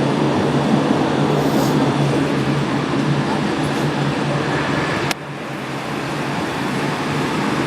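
Nankai 1000 series electric train with Hitachi GTO-VVVF control, heard from inside the car running at speed: a steady rumble of wheels and running gear with a low hum. About five seconds in there is a sharp click, after which the noise drops suddenly and then slowly builds back up.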